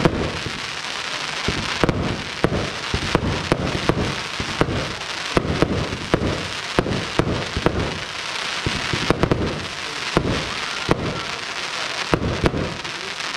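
Fireworks display: shells launching and bursting overhead, giving frequent sharp bangs over a continuous crackle of burning stars.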